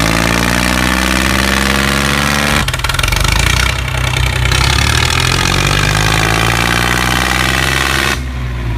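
DIY mini tractor's motor running loudly with an engine-like note whose pitch rises slowly twice, changing abruptly about two and a half seconds in and again near the end.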